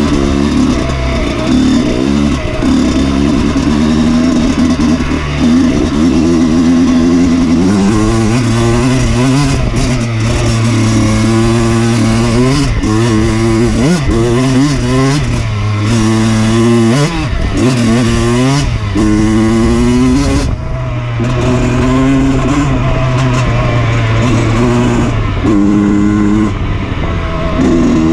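Dirt bike engine running under load, its note climbing and dropping again and again as the throttle is opened and closed.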